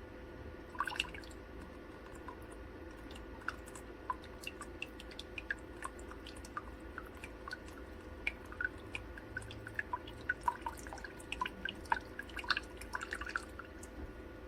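Small drops of liquid falling irregularly, a drip every fraction of a second that becomes quicker and denser in the last few seconds, over a faint steady hum.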